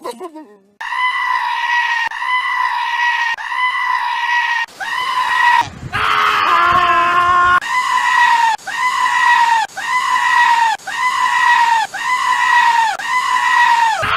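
A goat screaming over and over: a string of high, level-pitched bleats, each under a second long, coming faster and more evenly in the second half. A lower, rougher call breaks in around the middle.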